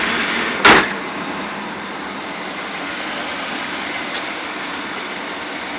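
Chevy S10 pickup's rebuilt engine idling steadily and smoothly. A single sharp knock comes just under a second in, after which the running sound is a little quieter.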